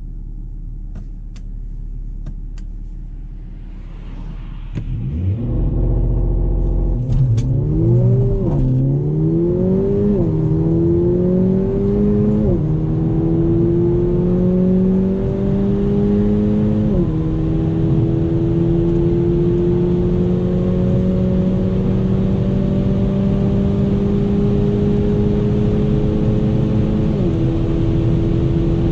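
Mercedes-AMG CLA 45's turbocharged 2.0-litre four-cylinder idling at a standstill, then revved and held for a launch-control start. It then pulls at full throttle up through the gears past 200 km/h, the engine pitch climbing within each gear and dropping at each of about five quick upshifts.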